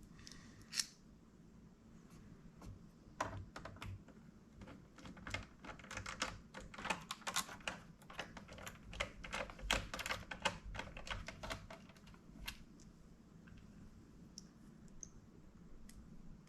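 Quick irregular light clicks and taps, several a second, from small laptop parts being handled during disassembly; they come thickest in the middle and thin out near the end.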